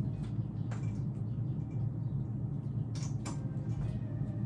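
A few light clicks of a plastic clip being handled and snapped back onto the animatronic's leg socket: one about a second in and two close together near the middle, over a steady low hum.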